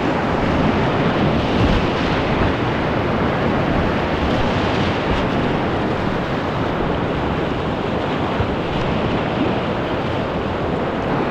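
Steady, loud rush of whitewater river rapids.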